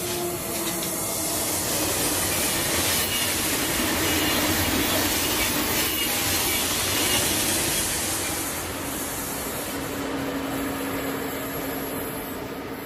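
Thalys high-speed trainset passing: a steady rush of wheels on rail and air, loudest about halfway through and slowly fading.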